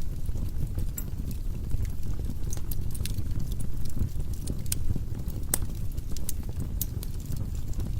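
Firewood burning in a fireplace: irregular sharp crackles and pops from the logs over a steady low rumble of the flames.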